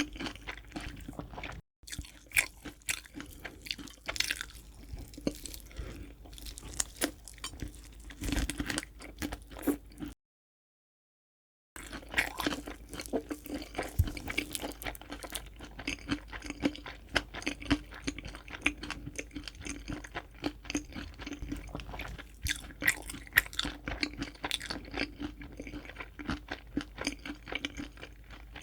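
Close-up crunching and chewing of crispy fried chicken, a dense run of crisp crackles. The sound cuts out completely for about a second and a half near the middle.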